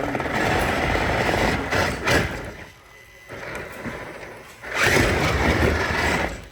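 Two loud passes of rushing vehicle noise, the first ending in a sharp knock about two seconds in, the second lasting about a second and a half near the end.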